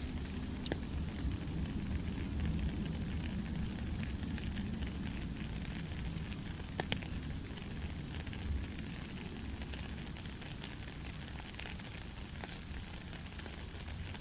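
Steady white-noise hiss played as a sleep sound for a baby, with a low rumble beneath and scattered faint ticks, the clearest about seven seconds in.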